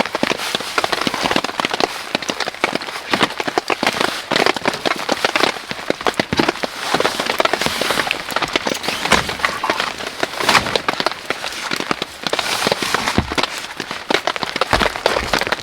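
Rain falling, with a dense, continuous run of sharp crackling clicks and snaps over a steady hiss.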